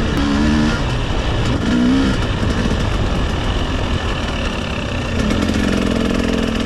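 Two-stroke 300cc dirt bike engine running, its pitch shifting with the throttle, over a dense low drone.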